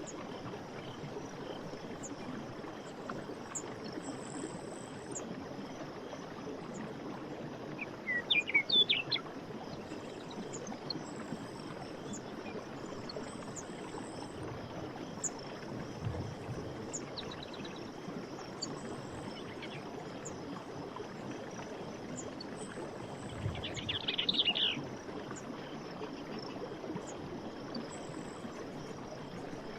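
Steady rush of running stream water, with birds chirping over it: two louder bursts of quick bird calls, about eight seconds in and again near twenty-four seconds, and faint high chirps now and then.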